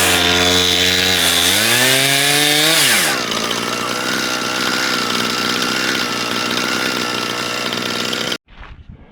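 Gas chainsaw on an Alaskan chainsaw mill running at full throttle, its pitch sagging and recovering under load as it cuts lengthwise through a log to finish a plank. About three seconds in it drops to idle, runs steadily, then shuts off suddenly near the end.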